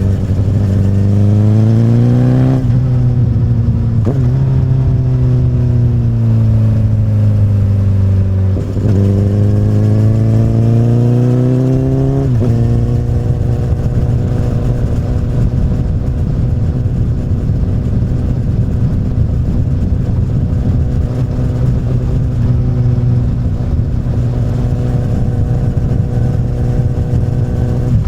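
2008 Honda CBR1000RR's inline-four engine through an Akrapovic carbon slip-on exhaust on the move: it pulls up through the revs and changes up a gear twice in the first few seconds, then the revs fall away as the throttle eases. It pulls up again, shifts up once more around twelve seconds in, and then holds a steady cruise.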